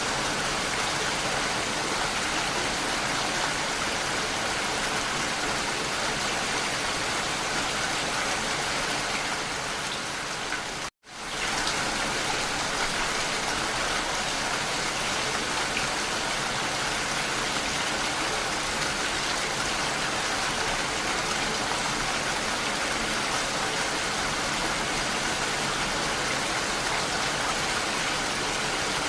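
Steady rainfall, an even wash of drops with no lulls. About a third of the way through it fades out for a split second and comes straight back.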